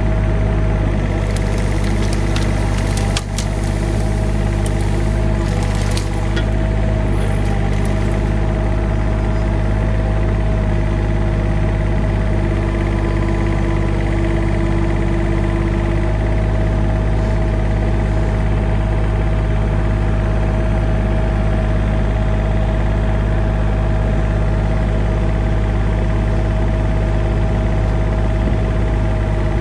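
Engine of an older hydraulic work machine running steadily under a constant tone, with a few sharp clacks in the first several seconds.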